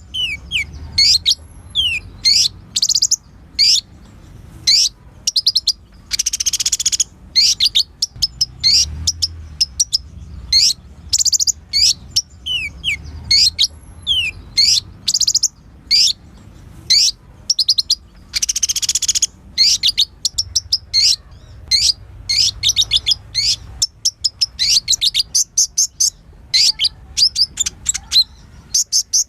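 Sunbird ('kolibri ninja') singing a rapid string of sharp, high chirps and short downward sweeps, broken twice by a longer buzzy trill.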